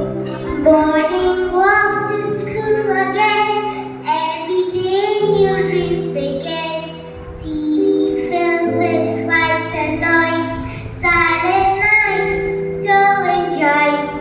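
A child singing a melody over accompaniment with sustained chords that change every few seconds.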